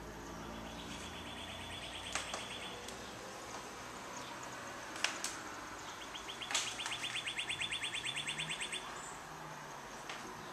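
A bird's rapid, high chirping trill, heard twice, the second longer at about nine notes a second, with a few sharp clicks in between.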